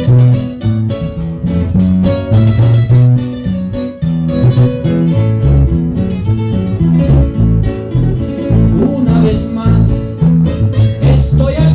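A guitar trio playing live: plucked acoustic guitar notes over a moving line of low bass notes, with little or no singing in this passage.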